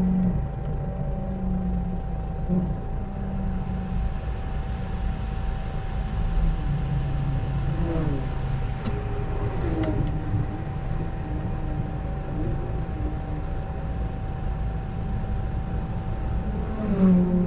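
Seat Ibiza FR's 2.0 TDI common-rail diesel engine idling with the car standing still, heard from inside the cabin as a steady low rumble with a constant thin tone above it.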